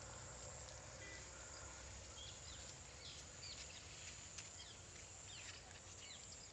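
Quiet outdoor ambience with scattered short, high chirps of small birds.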